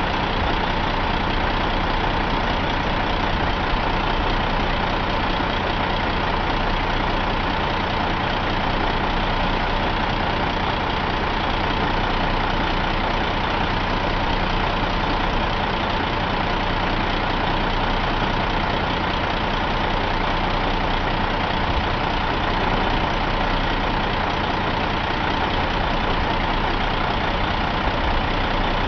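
Caterpillar C13 inline-six diesel engine idling steadily at an even speed.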